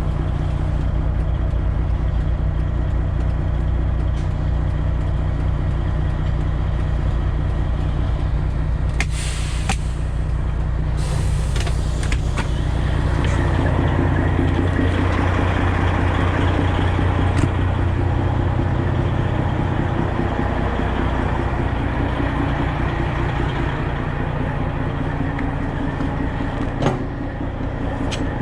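Semi truck's diesel engine idling steadily, with two short hisses of air about nine and eleven seconds in and a single knock near the end.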